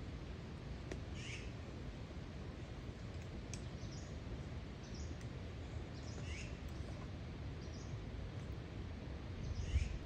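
Birds calling now and then, short high chirps every second or two, over a steady low background rumble; the loudest call comes near the end.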